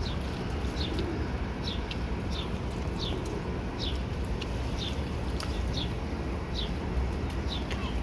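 A small bird chirping over and over, one short falling note a little more often than once a second, over a steady low rumble.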